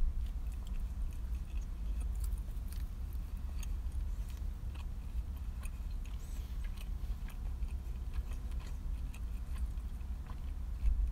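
A person chewing a mouthful of ham and cheese toastie with the mouth closed: soft, scattered wet clicks and crunches over a steady low rumble.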